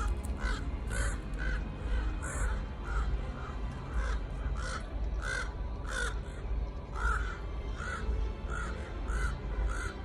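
Crows cawing over and over, short harsh calls coming about two a second, over a steady low rumble.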